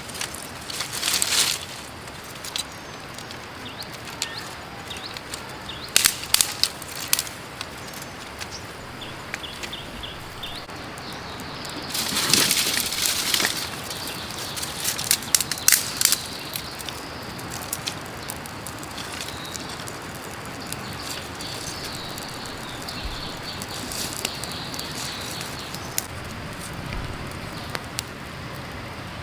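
Creek water running steadily, with scattered sharp clicks and knocks and a brief rustling burst about twelve seconds in.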